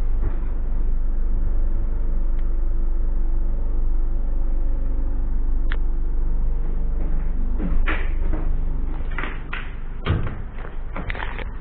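Renault Trafic van's diesel engine running steadily at idle. Sharp clicks and knocks of doors or latches being worked come in the second half, and the low hum eases off near the end.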